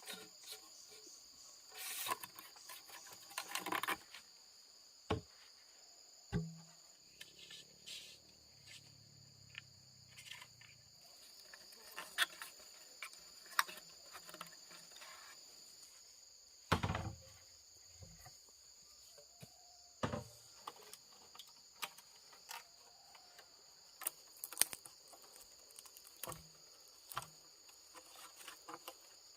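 A steady high-pitched insect chorus, with scattered knocks, snaps and rustles from work close by; the loudest knocks come about 17 and 20 seconds in.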